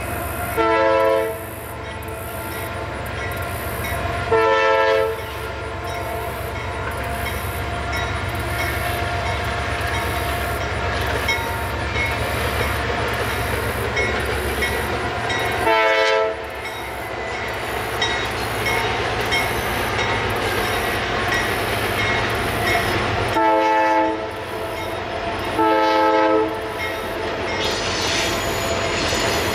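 A diesel freight locomotive's horn sounds five short blasts, one near the start, one about four seconds in, one midway, and two close together near the end. Beneath them is the steady rumble and clatter of a long intermodal freight train of trailers on flatcars rolling past.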